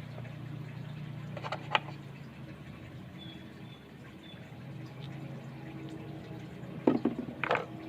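A steady low hum, with a short clatter of knocks about one and a half seconds in and a louder clatter near the end.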